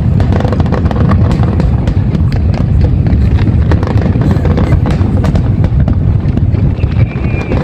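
Fireworks display going off: a dense run of sharp bangs and crackles over a steady low rumble.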